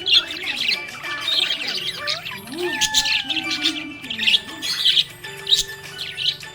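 Budgerigars chirping and warbling: a busy run of short, high chirps and squawks with a few gliding whistled notes, and a lower warbling chatter in the middle.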